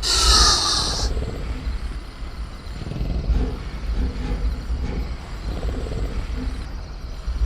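Designed velociraptor sound effect: a sharp hiss with a falling screech in the first second, then low growling over a deep steady rumble.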